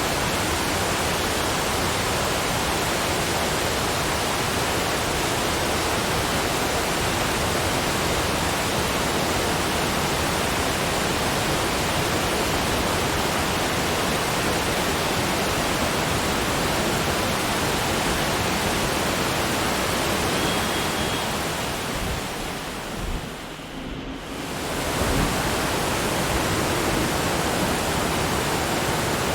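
Steady, even rushing noise with no distinct events, like falling water. It fades down briefly about three-quarters of the way through and comes straight back up, as at a loop join.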